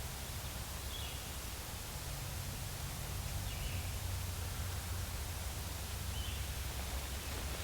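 Quiet woodland ambience: a bird's short high chirp, three times about two and a half seconds apart, over a steady low rumble and hiss.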